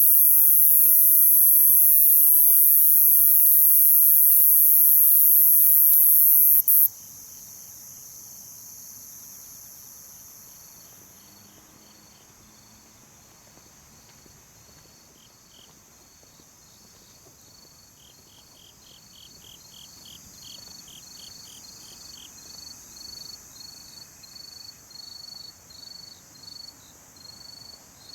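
A loud, steady, high-pitched insect drone cuts off abruptly about seven seconds in, leaving crickets chirping in a steady rhythm of about two chirps a second. The chirps grow louder toward the end, with short trills now and then.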